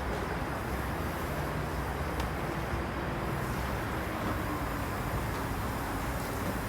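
Steady low rumble of a vehicle engine running, with a faint even hum and no sudden changes.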